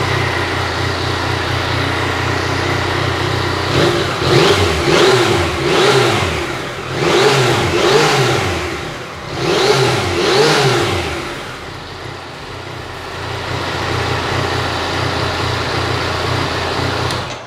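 Yamaha MT-09 Tracer's 847 cc three-cylinder engine running just after a start: it idles steadily, then is revved in about seven quick throttle blips between about four and eleven seconds in, and then settles back to idle.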